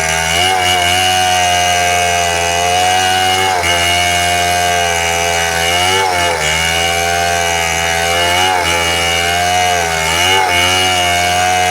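Two-stroke chainsaw running at high speed, its pitch sagging briefly about four times as it cuts through wood.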